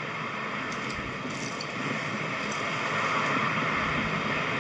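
An engine of a machine running steadily and growing gradually louder, with a few faint ticks.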